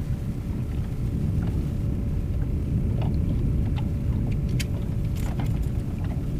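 Boat motor running steadily, a low rumble with a steady hum, with wind rumbling on the microphone and scattered light clicks and splashes.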